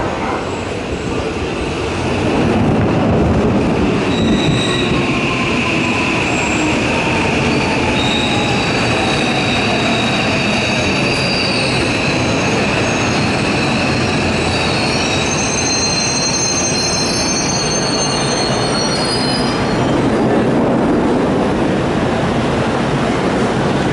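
Electric commuter train pulling into the platform and braking: wheels rumble loudly from about two seconds in, a motor whine falls in pitch as the train slows, and high squeals from the wheels and brakes come in the second half.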